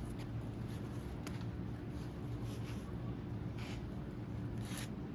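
Faint clicks and light scrapes of hands handling the last seal and cylinder parts, a few times at irregular moments, over a steady low hum.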